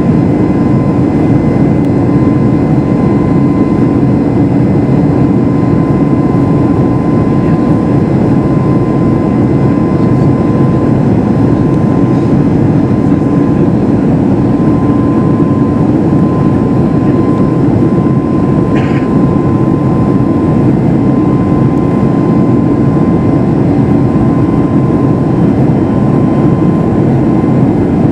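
Steady in-flight cabin noise of a Boeing 737 MAX 8, its CFM LEAP-1B jet engines and the airflow running evenly, heard from inside the cabin. A faint steady whine sits on top of the rush.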